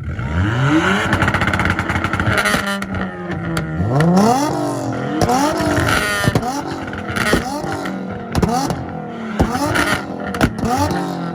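Performance car engine revved hard again and again, the pitch sweeping up and dropping back about once a second in the second half, with sharp exhaust pops between the revs.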